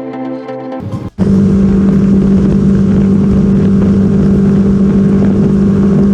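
BMW G310 GS single-cylinder motorcycle engine running at a steady cruising speed, a constant drone under a loud rush of noise, starting suddenly about a second in after a short stretch of electronic music.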